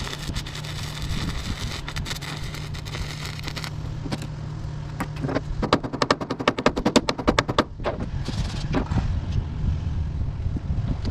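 Welding on a truck fender: a steady crackle over a low hum, then in the middle a fast, even run of sharp pops for about two seconds.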